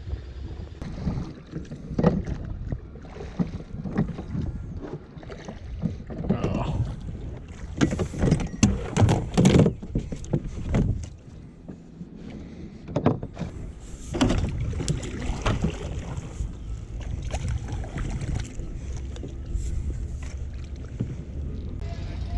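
Small dinghy being worked in the water: irregular splashes, sloshing and knocks against the boat, settling into a steadier low rumble in the last few seconds.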